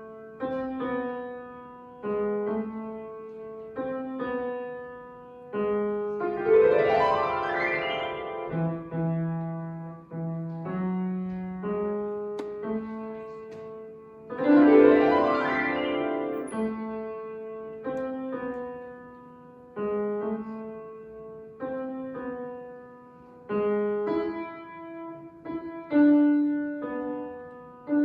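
Solo piano playing a slow melody of single struck notes that ring and fade, about one a second. Twice, about six and fourteen seconds in, a fast upward run sweeps up the keyboard, the loudest moments.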